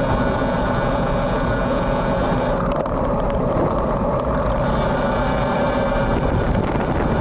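Wind buffeting an action camera's built-in microphone on a moving road bike, with a steady hum of motor traffic underneath.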